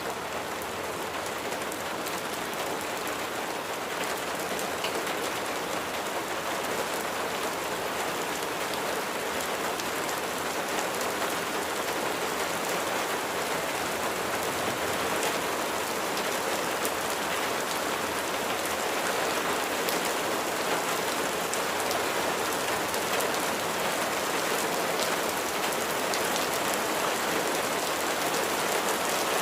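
Steady rain falling, a dense patter of raindrops striking a surface, growing slightly louder across the span.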